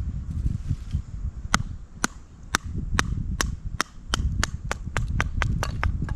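A run of about fifteen sharp knocks, starting about a second and a half in and speeding up from about two a second to about five a second, over a steady low rumble.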